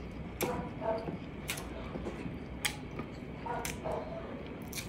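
A person chewing braised pork ribs close to the microphone, with a sharp wet mouth smack about once a second.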